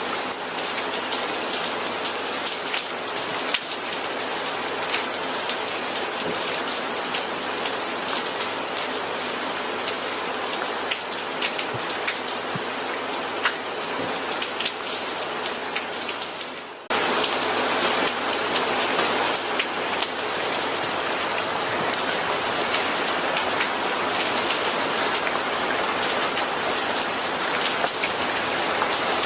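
Steady rain falling on a surface, a continuous hiss with individual drops ticking through it. About 17 seconds in it cuts suddenly to a louder, fuller rain with more low rumble.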